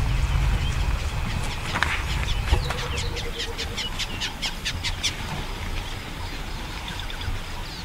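Wild birds calling in the bush: a rapid run of short, sharp high-pitched calls, about five a second, in the middle, over a steady low rumble.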